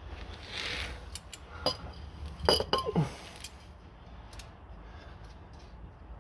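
Metal clinks and knocks from hand tools and exhaust fittings being handled, a run of sharp clinks with a brief ring, loudest about two and a half seconds in.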